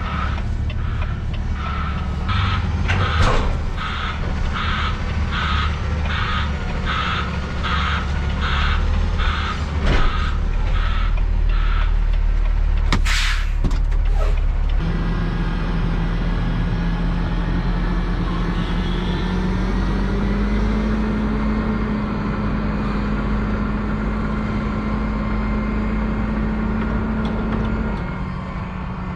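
Semi-truck reversing alarm beeping at a steady rate of about one and a half beeps a second over an idling diesel engine, stopping about twelve seconds in. A short burst of air-brake hiss follows, then the diesel engine pulls and its note rises as the truck moves off.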